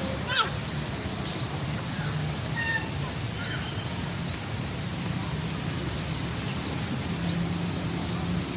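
A bird chirping over and over, about two short rising chirps a second, with a louder call about half a second in.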